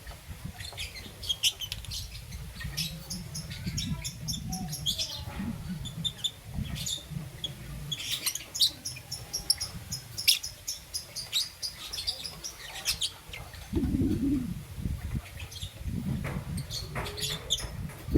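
Young peach-faced lovebird chirping, a run of short, high, rapid chirps. Low dull bumps and rustling come in about three-quarters of the way through and again near the end.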